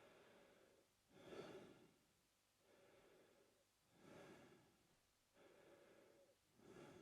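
A man breathing slowly and quietly through his mouth, in and out in an even rhythm of about one full breath every two and a half seconds. The breaths alternate: a louder one that swells and fades, then a softer, steadier one.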